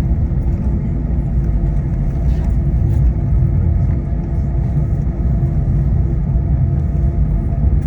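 Steady low rumble with a constant hum over it, the noise heard inside a moving vehicle.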